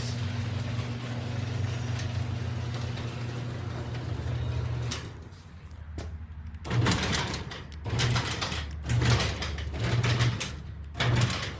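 Genie garage door opener motor running with a steady hum for about five seconds, then stopping. After a short lull the opener runs in short starts and stops, each with loud rattling and clattering from the door as it is forced against the opener by hand.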